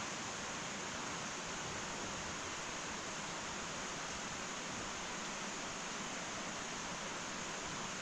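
Fire in an irori sunken hearth burning with a steady, even hiss and no distinct crackles or pops.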